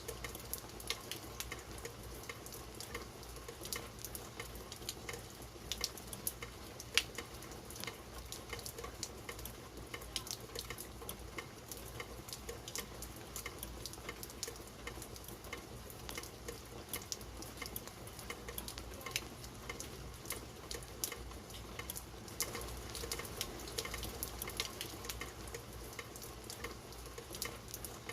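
Steady rain: a constant hiss with many scattered, sharp ticks of individual drops hitting.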